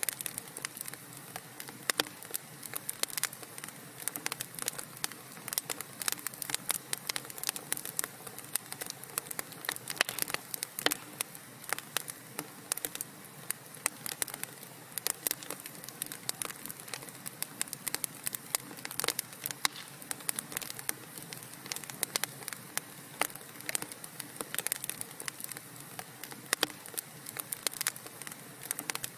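Wood fire in a fireplace crackling: a steady dense scatter of irregular sharp pops and snaps over a soft low hiss.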